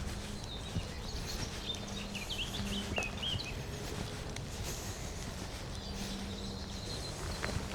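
Woodland songbirds calling, with a quick run of short high chirps about two to three seconds in and fainter calls later, over a light outdoor hiss. A few soft knocks are heard.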